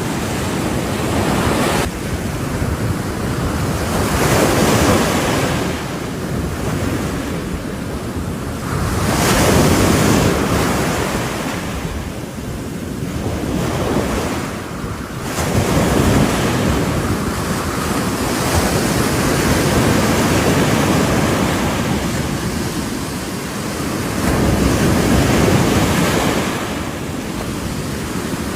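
Ocean waves breaking on the shore: a steady surf that swells and eases as each wave comes in, cresting every four to six seconds.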